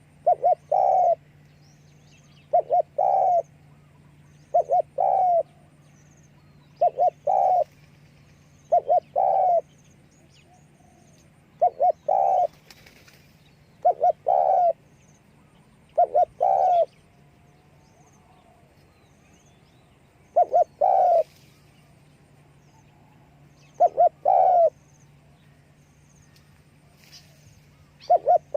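Spotted dove cooing over and over. Each phrase is two quick short notes followed by a longer coo, repeated about every two seconds with a few longer pauses between. A faint steady hum runs underneath.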